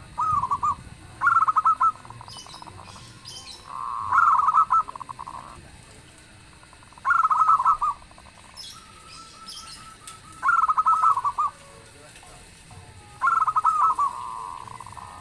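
Zebra dove (perkutut) cooing: phrases of quick, rapidly pulsed coos, each about a second long, repeated about every three seconds, six in all.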